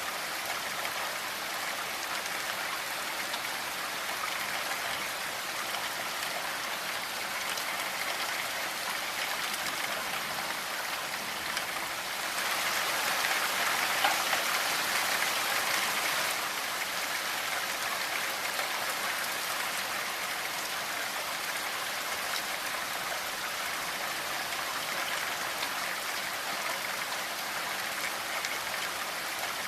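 Steady rainfall, drops pattering on a surface, swelling a little louder for a few seconds near the middle.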